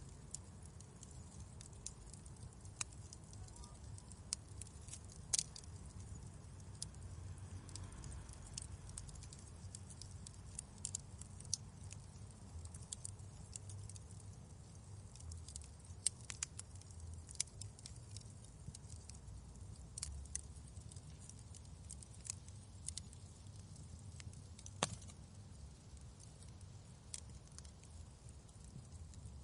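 Wood fire crackling in a fireplace: irregular sharp snaps and pops, a few of them louder, over a faint steady low rumble.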